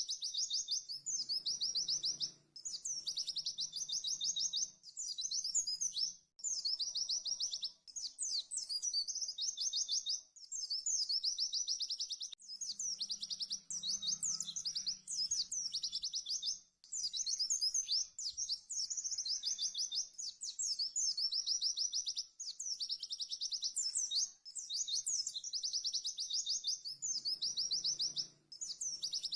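Pleci (white-eye) singing its fast 'tembakan' song: high, rapid trilled phrases of a second or two each, following one another with short breaks. A faint low hum comes and goes underneath.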